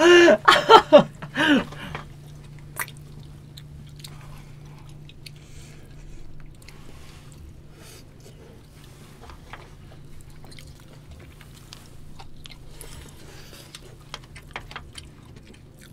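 Quiet eating sounds: people chewing and biting food, with scattered small clicks from chopsticks and bowls, over a low steady hum. A brief burst of voices comes in the first couple of seconds.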